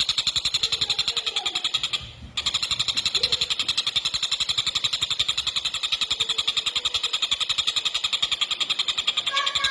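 Collared kingfisher (tengkek buto) chattering in a fast, tight, unbroken run of harsh high notes, about a dozen a second, with a brief break about two seconds in. Near the end, a second, falling drawn-out call starts over it.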